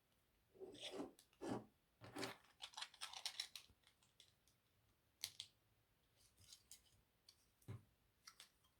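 Plastic Lego pieces being handled and snapped together: scattered light clicks and rattles, busiest about two to three and a half seconds in, then a few single clicks.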